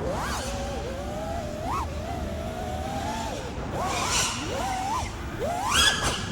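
FPV quadcopter's four brushless motors (Axis Flying AF227 1960kv on 6S) whining, the pitch rising and falling with the throttle, with sharp upward sweeps on punches about two, four and six seconds in.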